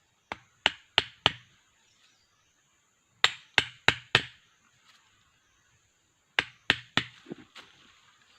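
Sharp knocks in three quick runs, three to four strokes about a third of a second apart in each run, with a pause of about two seconds between runs.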